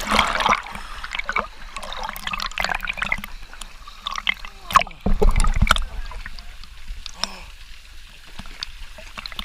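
Water trickling and gurgling in a small rock pool fed by a waterfall, with sharp splashes and clicks from someone moving about in it. There is a heavier low splash or slosh about five seconds in.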